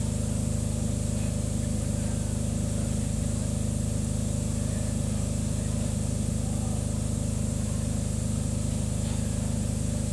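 A locomotive's air compressor running steadily, pumping air for the train brakes, with a fast even pulse.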